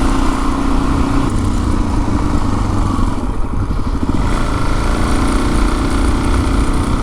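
Suzuki DR-Z400S single-cylinder engine running steadily under a riding motorcycle. Its note drops about three seconds in, then picks up again.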